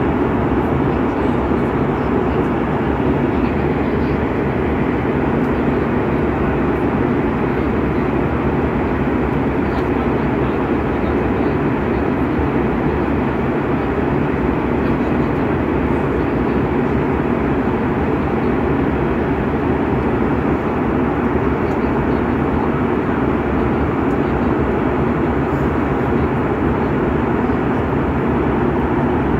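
Airplane cabin noise in flight: the engines and rushing air make a steady, unbroken drone.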